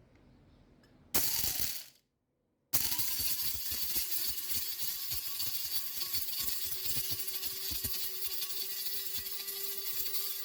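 Bosch electric coffee grinder running with coffee beans rattling and cracking inside, many rapid clicks over a steady motor hum that comes through more clearly in the second half. It starts with a short loud burst about a second in, then a brief cut to silence before the grinding sets in.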